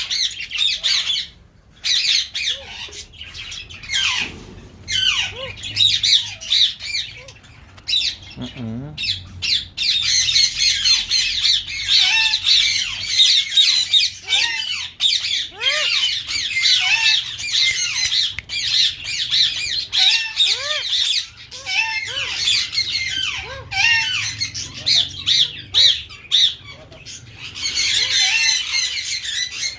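Many caged birds in a breeding aviary chattering and squawking together in a dense, continuous overlapping din of high calls, with shorter arched squawks mixed in.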